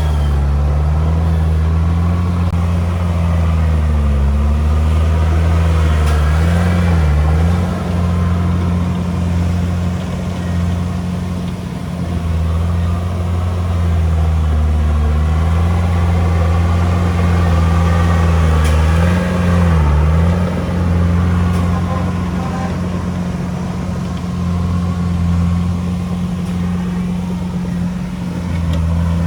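Komatsu D31P bulldozer's diesel engine running steadily and loudly while it works, its pitch dipping briefly twice, about seven seconds in and again near twenty seconds.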